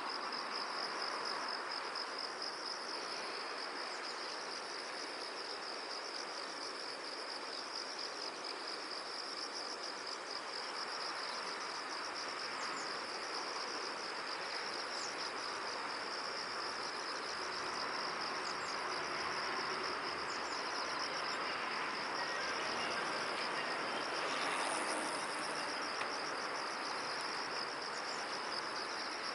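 Crickets chirping in a continuous, rapidly pulsing high trill over a steady, even background hiss.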